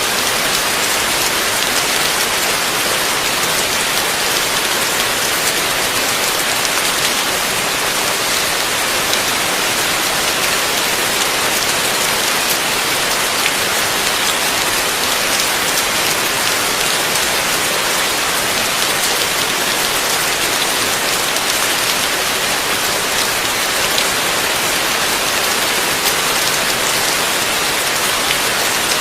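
Heavy rain falling steadily: a dense, even hiss of drops with faint scattered pattering, unchanging throughout.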